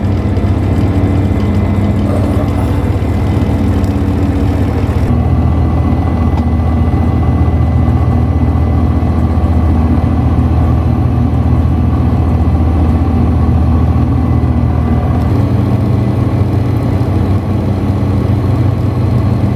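An engine running steadily at idle: a loud low hum, with a faint thin high tone above it.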